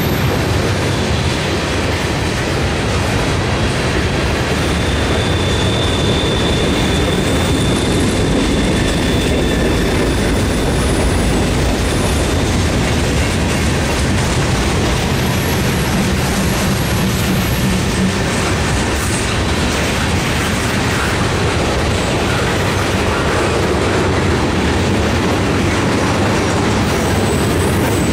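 Freight cars of a CSX mixed freight train, mostly tank cars, rolling steadily past: steel wheels clack over the rail joints under a continuous rumble. A thin high squeal runs from about five seconds in for several seconds.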